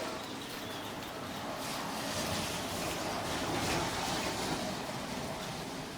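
Steady rain shower falling, an even hiss of rain without a break, slightly heavier for a couple of seconds in the middle.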